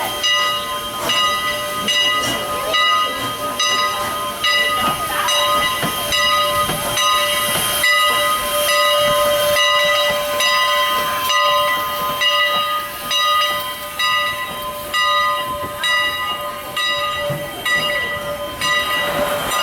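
Strasburg Rail Road No. 89, a 2-6-0 steam locomotive, standing and hissing steam, with a steady high ringing tone that breaks off briefly about once a second.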